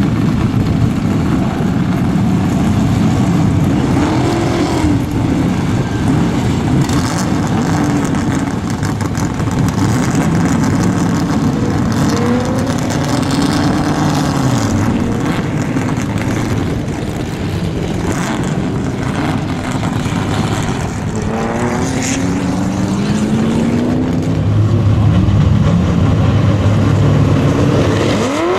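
Race car engines revving hard as muscle cars race past on a circuit, with repeated rises and falls in pitch as cars pass and change gear.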